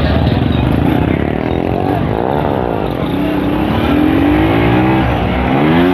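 Motorcycle engine revving, its pitch climbing and falling back twice, about two and a half seconds in and again near the end.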